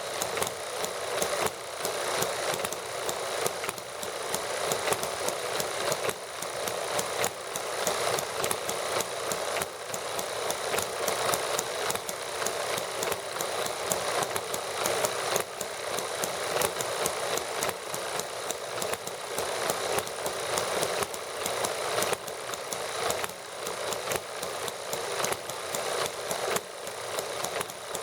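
Several small model gasoline engines running together while warming up, a steady, rapid clatter of firing and ticking.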